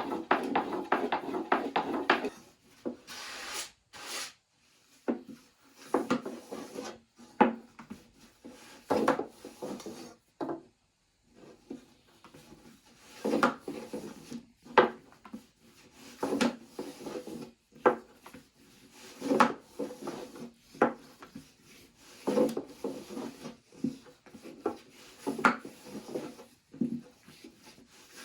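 Wood rubbing and knocking: a quick run of rapid scraping strokes for about two seconds, then scattered separate knocks and scrapes, with a short pause about ten seconds in.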